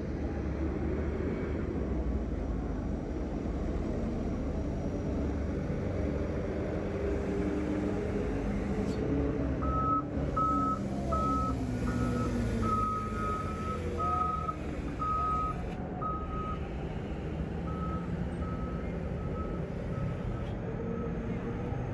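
Heavy truck engine running, its pitch rising and falling, with a reversing alarm beeping at an even pace, about one and a half beeps a second, from about ten seconds in, stopping briefly and then starting again.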